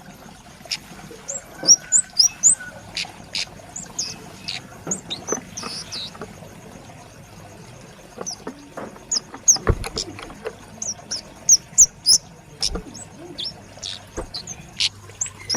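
A young kemade, a flowerpecker, calling repeatedly: quick runs of thin, sharp, high chipping notes, some rising and some falling. Now and then there is a sharp knock.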